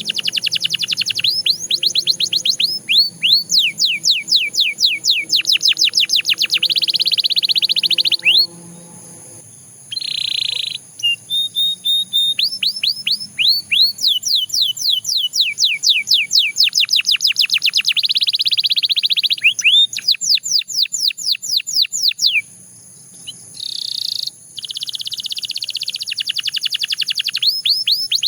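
Belgian canary singing: long runs of rapid, fast-repeated downward-sliding notes and rolling trills, stopping briefly twice.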